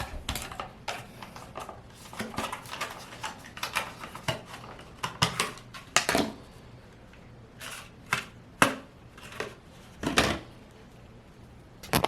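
Irregular clicks, taps and knocks of small hard objects being handled as a wax melt is put into an electric wax warmer, with a few louder knocks in the second half.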